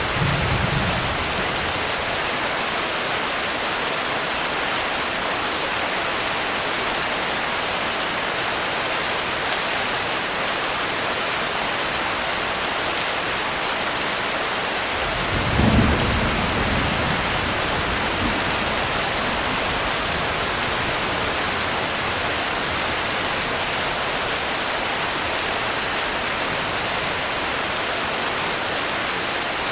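Steady heavy rain, an even hiss throughout, with a brief low rumble of thunder at the very start and a louder roll of thunder about halfway through that trails off over a couple of seconds.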